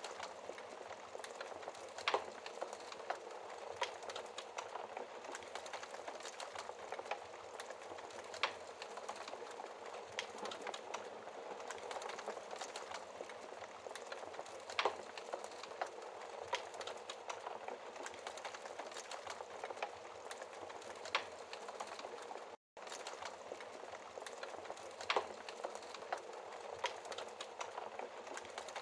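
Wood fire crackling and hissing steadily, with sharp pops every few seconds. The sound cuts out for an instant about three quarters of the way through.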